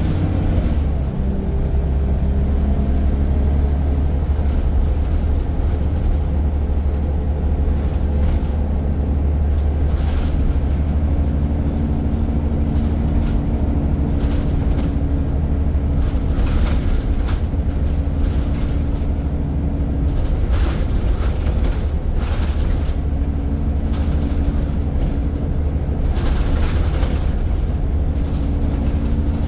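Scania N94 single-deck bus engine running under way, a steady low rumble with a pitched drone whose pitch shifts a few times as it changes gear. Several bursts of body rattle sound through it, the loudest about 16 and 26 seconds in.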